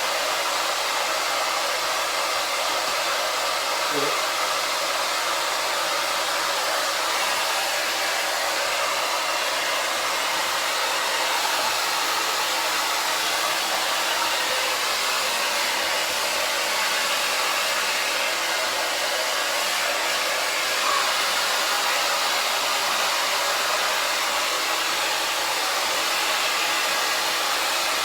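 Hand-held hair dryer blowing steadily at an even pitch while drying a wet dog's coat.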